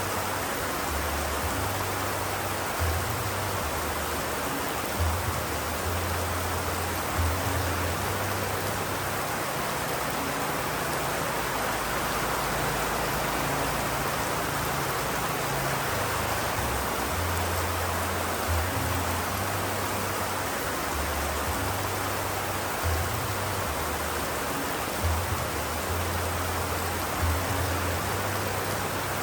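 Steady rain, an even hiss with no letup. Underneath runs an irregular low hum that comes and goes, with a few brief low knocks every few seconds.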